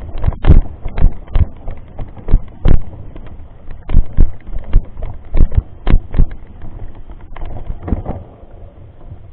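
Mountain bike jolting over a rough trail, with irregular sharp knocks and thuds from the bike and a low rumble of wind on the microphone.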